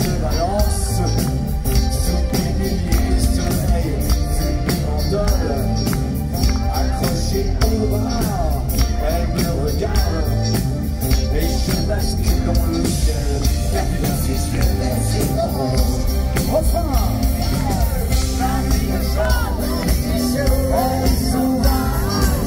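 Live pop-rock band music with a steady beat and bright jingling percussion running throughout.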